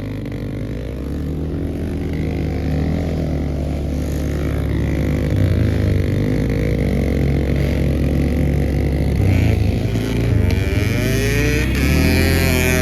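Pit bike engine running under throttle, its pitch rising and falling as it revs up and eases off, with a few rising revs near the end.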